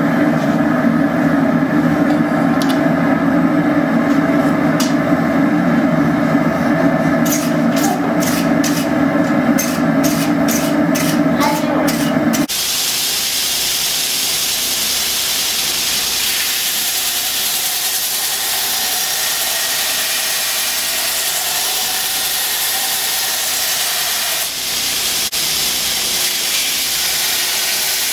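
Forge running with a steady low roar, and a quick run of about a dozen light taps during the blade work. About twelve seconds in, the sound switches abruptly to an even, steady hiss.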